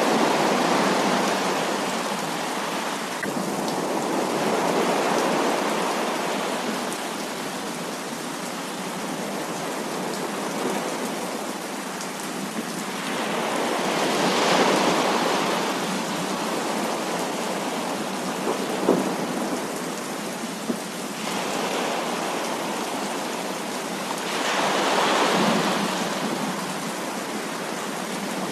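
Heavy rain falling steadily during a thunderstorm, with thunder rumbling in slow swells several times. A couple of brief sharp ticks stand out near the middle.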